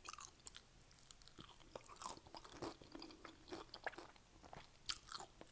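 Faint chewing of a mouthful of Doritos nachos: irregular small crunches and wet mouth clicks, with a louder crunch about five seconds in.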